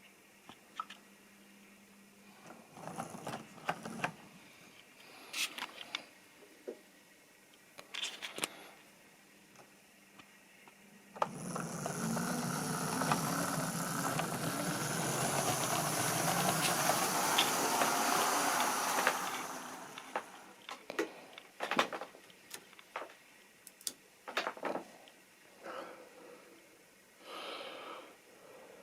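Model railway train running on the track: scattered clicks and clacks of wheels over the rails, with a louder steady stretch of running noise in the middle as it passes close by.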